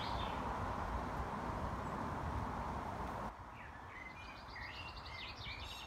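Steady outdoor background hiss that drops off abruptly about three seconds in, after which a small bird chirps repeatedly in short high notes, including a quick run of notes.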